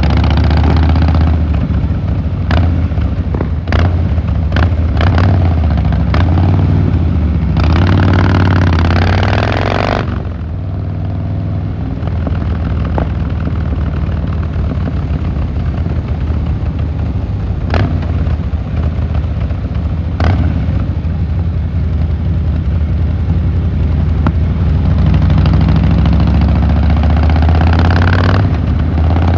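Harley-Davidson Fat Boy Lo V-twin engine and exhaust running under way on the road. It is loud and full for about ten seconds, eases to a lower, steadier run, then builds again near the end. Several sharp clicks sound in the first seven seconds and twice more later.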